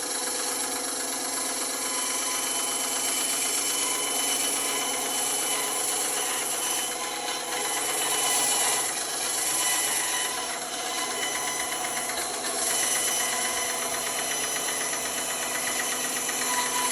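Electric woodworking saw running steadily, with a fast even rattle.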